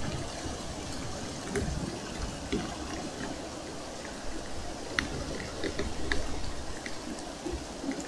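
Light rain falling, with scattered single drops ticking sharply at irregular intervals.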